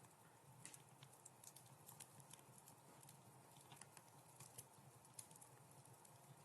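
Wood fire crackling softly in a fireplace: many small, irregular pops and snaps over a faint low hum.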